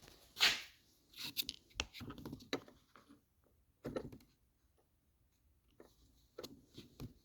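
Parts of a compression tester kit being handled, with scattered clicks and light knocks of small metal fittings and rustling. There is a short scrape about half a second in and a dull knock about four seconds in.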